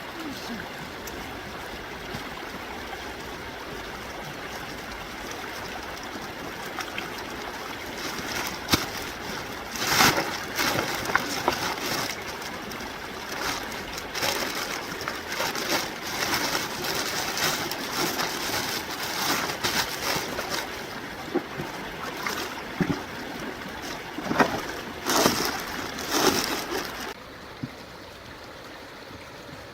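Flowing stream water running steadily, with repeated irregular splashing from about eight seconds in, loudest around ten seconds and again near the end. The splashing stops shortly before the end, leaving only a quieter flow.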